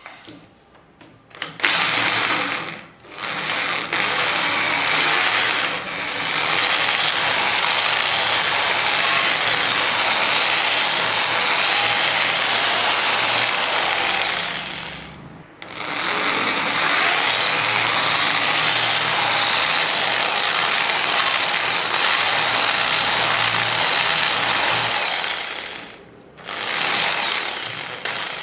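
Power drill running under load in long steady runs, stopping briefly about three seconds in, around the middle and near the end.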